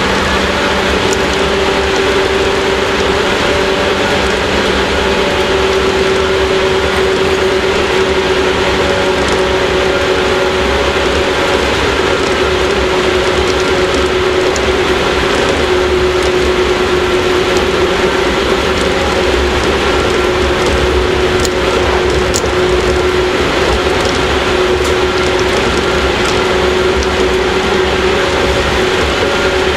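Running sound inside the motor car of a JR 115-series electric train cruising between stations: a steady traction-motor and gear hum over wheel and track noise, with occasional light clicks and rattles.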